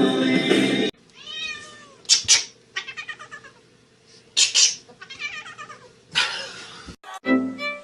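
A domestic cat meowing several times in a row, separate calls with short pauses between them. Music plays for the first second and comes back near the end.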